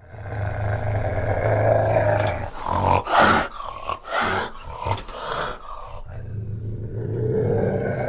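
An animal growling: a long low growl, then several shorter, louder cries in the middle, then another long growl near the end.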